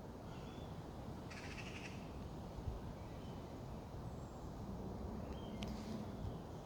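Birds calling outdoors: a few short high chirps and one brief chattering call about a second in, over a steady low rumble. A sharp click near the end.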